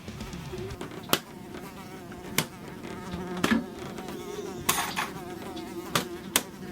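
A fly buzzing steadily in flight, broken about six times by sharp smacks, like swats at it.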